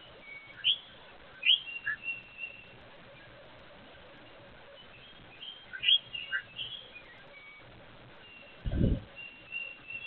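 Songbirds chirping in two short clusters of quick sweeping notes, with a few thin held whistles between them. A single low thump comes near the end.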